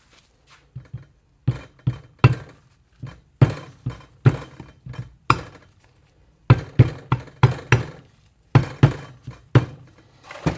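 A string of sharp knocks and clinks from metal turbocharger parts being handled and fitted back together, coming in four quick clusters of several hits each.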